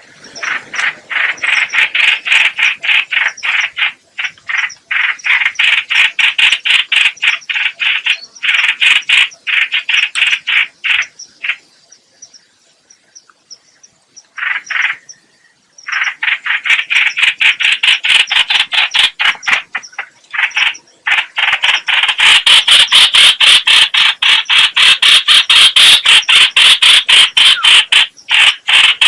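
Trao trảo (chao chảo) bird giving a rapid, harsh chattering call of fast-repeated notes. It pauses briefly about halfway through, then resumes and grows louder near the end.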